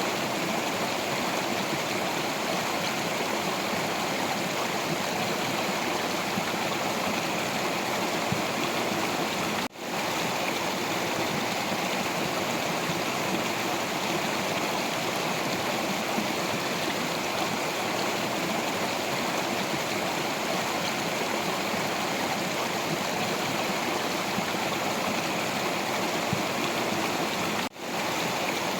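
Stream water rushing and splashing over rocks in a steady, even flow, with two very short dips in the sound, about ten seconds in and near the end.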